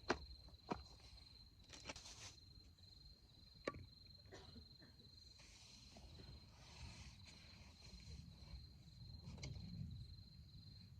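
A cricket trilling steadily, one high pulsing note, with a few sharp clicks or pops in the first four seconds over a low rumble.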